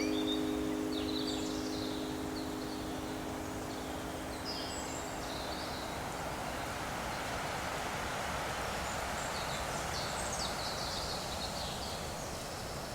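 Outdoor nature ambience: a steady rustling hiss with birds chirping now and then, more busily in the first couple of seconds and again in the second half.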